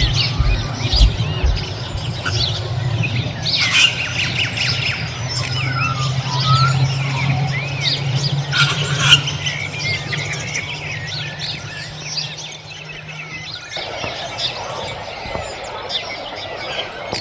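Several birds chirping and calling outdoors, many overlapping short calls. A steady low hum runs under them and stops about three-quarters of the way through.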